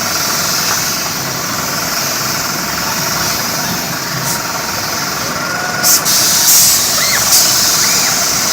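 Helicopter engine and rotor running steadily in flight, with a strong hiss. A few short louder bursts of noise come about six to seven and a half seconds in.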